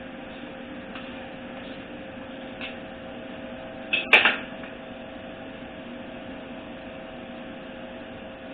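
Steady electrical hum in a small shop, with faint metal clicks and a sharp double click about four seconds in, typical of a click-type torque wrench reaching its setting on the transmission bolts.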